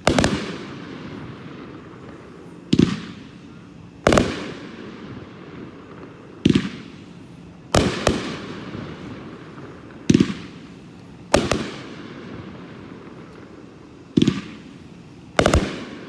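Sky Shooter 15-shot consumer firework cake firing slow single shots, about one every four seconds. Each shot is a launch pop followed about a second later by a bang in the air that trails off.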